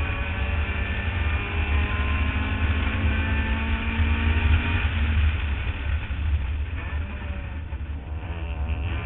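Mazda Miata race car's four-cylinder engine pulling hard at high revs, heard from a roof-mounted camera with a heavy rumble of wind noise underneath. The engine note eases about six seconds in as the car lifts for a corner.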